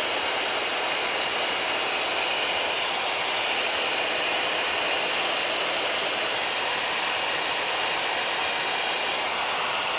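Steady in-flight drone of a Mooney M20K's turbocharged six-cylinder piston engine and propeller, heard from inside the cabin as an even wash of noise.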